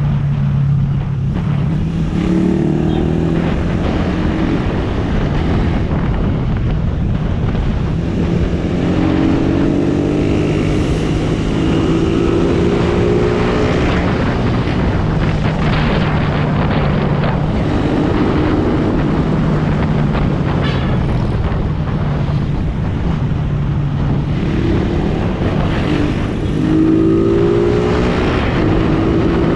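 Suzuki Raider R150 single-cylinder four-stroke engine pulling the bike along. It revs up and shifts through the gears several times, each rising run of pitch breaking off at a gear change, with a steady lower engine note between.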